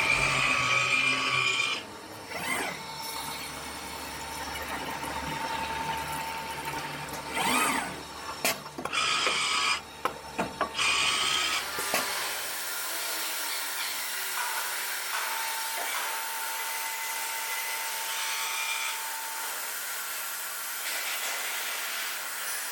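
Stone-working CNC machine running: a spinning cutting tool with a drill-like whine, changing abruptly several times in the first half, then settling into a steadier, quieter run with a thin steady tone.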